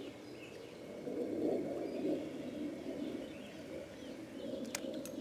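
Steady rush of a stream's flowing water with faint songbirds chirping over it. A few sharp clicks come near the end.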